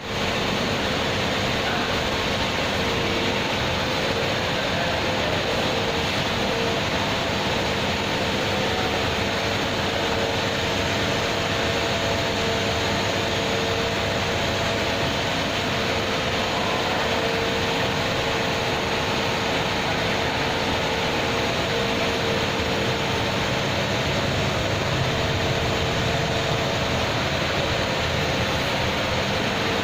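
Volkswagen Caravelle engine running steadily after an overhaul, a constant noise with a steady hum and no change in speed.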